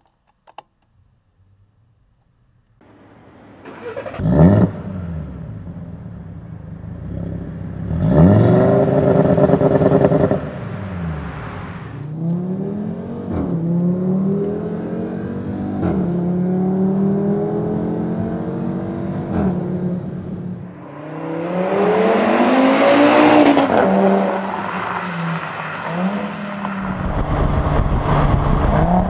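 Audi TT RS turbocharged five-cylinder engine with a custom exhaust, starting up about three seconds in with a quick flare, then revved and accelerated hard several times. Its pitch climbs through the gears, drops at each shift and rises again.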